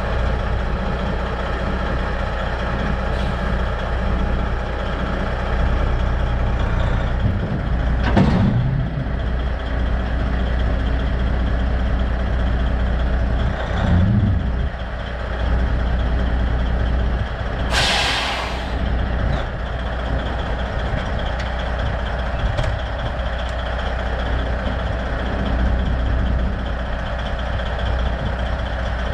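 An old Freightliner semi truck's diesel engine idling steadily, with a couple of short knocks. About two-thirds of the way through there is a burst of air hissing for about a second.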